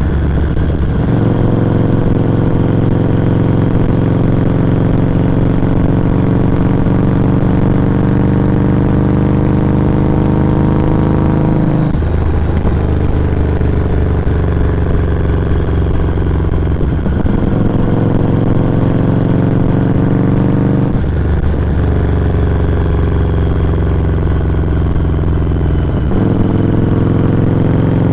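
Exhaust of a Harley-Davidson Street 500's liquid-cooled V-twin through a Firebrand Loose Cannon slip-on muffler, recorded close to the muffler while riding. The engine note climbs slowly, then drops abruptly about five times, as at gear changes.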